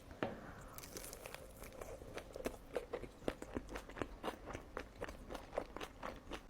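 Close-miked chewing of sushi in a mukbang, a quick, regular run of moist crisp clicks at about four chews a second.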